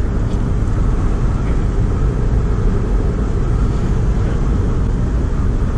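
Steady road and engine rumble heard from inside a moving car at speed.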